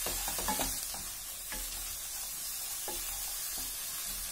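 Paneer, potato and peanuts sizzling in hot ghee in a kadhai, a flat spatula scraping and turning them now and then over a steady sizzle.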